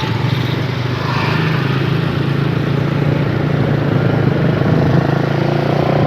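A small engine running steadily at an even speed, with a constant low hum under a haze of noise.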